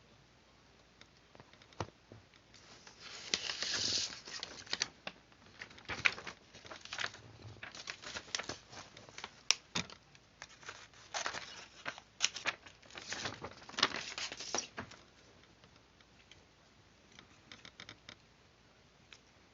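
Paper rustling and crinkling as it is handled, in irregular bursts with sharp clicks, from about three seconds in until about fifteen; a few faint ticks near the end.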